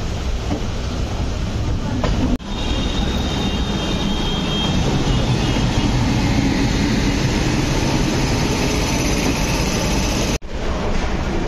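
Indian Railways express passenger train running at speed, heard from an open coach door: steady clatter and rumble of wheels on rail with rushing air. For a few seconds after the first of two brief sudden dropouts, a thin high wheel squeal rides over it.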